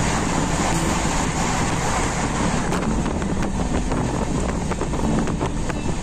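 Darjeeling Mail passenger train running at speed, heard from aboard: a steady rumble and rush of air, with quick clicks of the wheels over the rails from about halfway through.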